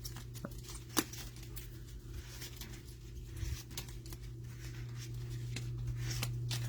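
Trading cards being handled and sorted by hand: a string of light clicks, taps and sliding card rustles, one sharper click about a second in, over a steady low hum.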